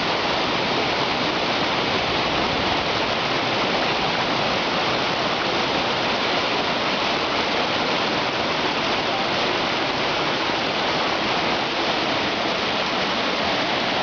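Waterfall rushing, a steady, loud roar of falling water with no breaks.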